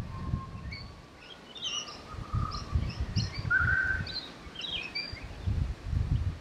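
Birds chirping and calling outdoors: many short high chirps throughout, with one clear whistled note about three and a half seconds in. A low rumble comes and goes underneath.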